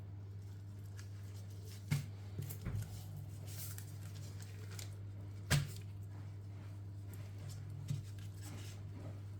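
Quiet kitchen handling during food preparation: a few short knocks and soft rustles of hands and utensils working on the counter, over a steady low hum.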